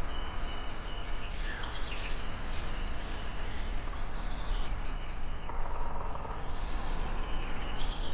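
Tropical forest ambience: insects trilling steadily, with birds chirping and calling over them.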